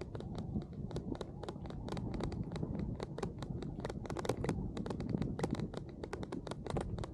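Raindrops striking the camera in quick, irregular clicks, over a steady low rumble from riding.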